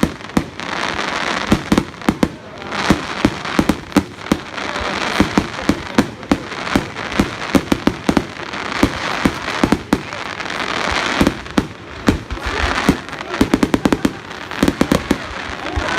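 Fireworks going off: a dense, irregular string of sharp bangs and pops over a hissing crackle that swells and fades in waves.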